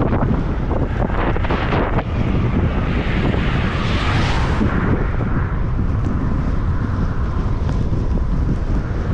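Wind buffeting the microphone of a bicycle riding into a strong headwind with rain: a steady low rumble. About four seconds in, a brighter hiss swells and fades.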